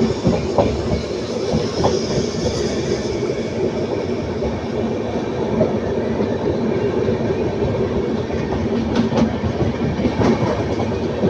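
A passenger train coach running along the line: a steady rumble with a few sharp clacks as the wheels cross rail joints.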